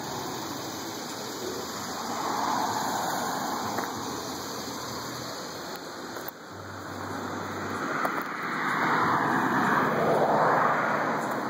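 Cars driving past: tyre and engine noise swelling and fading twice, with the louder pass near the end.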